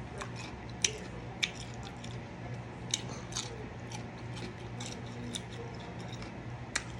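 Close-mic eating sounds: scattered short, wet clicks and smacks at an uneven pace, over a steady low hum.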